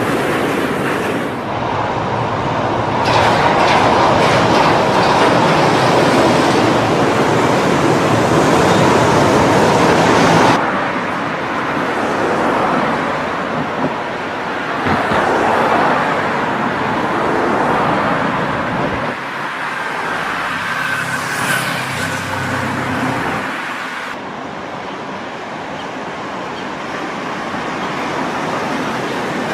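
Loud, steady rushing noise of a moving vehicle in several segments that change abruptly from one to the next, loudest between about 3 and 10 seconds in.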